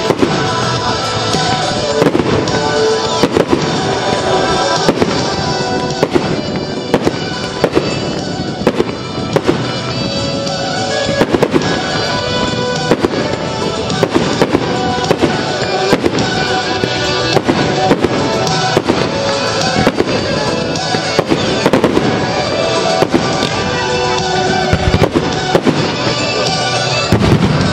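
Aerial firework shells bursting in an irregular, often rapid run of sharp bangs, over a music soundtrack.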